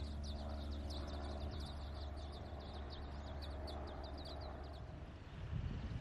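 Small birds giving a quick run of short, high, thin chirps, several a second, that stops shortly before the end, over a low steady rumble.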